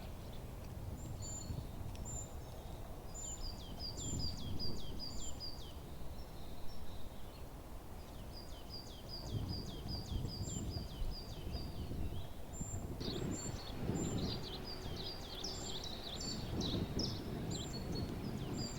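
Wind rumbling on the microphone while small birds sing in several bouts of quick, high repeated chirps.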